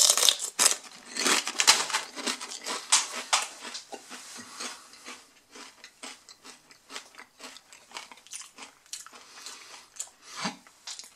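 A person chewing thick cauldron-cooked potato chips close up: loud, rapid crunching that grows softer and sparser after about four seconds as the mouthful is chewed down.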